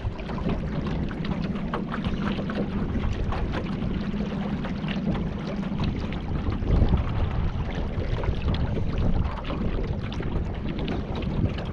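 A boat motor running steadily, with water splashing against the hull and wind buffeting the microphone.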